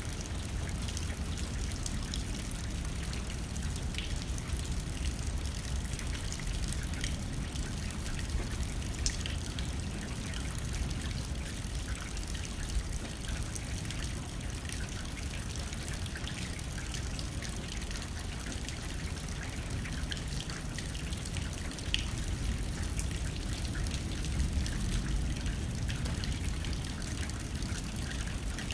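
Steady rain hitting a window, with scattered sharper drop ticks and a low wind rumble underneath.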